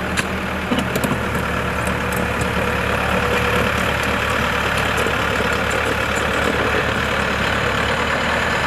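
Engine of a piece of heavy equipment running steadily, with a few sharp clicks in the first second or so.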